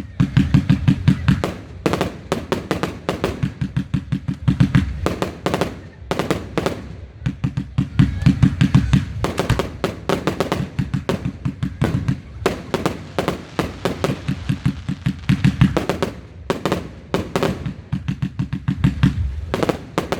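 Fireworks going off in rapid volleys, several loud bangs a second, with short lulls every couple of seconds between barrages.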